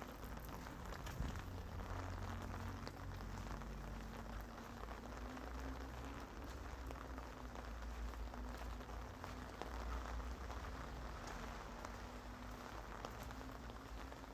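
Steady rain falling, with many scattered drops ticking and a low rumble underneath.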